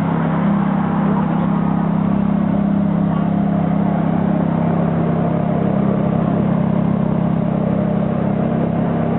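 A supercar engine idling steadily, a constant low hum with no revving.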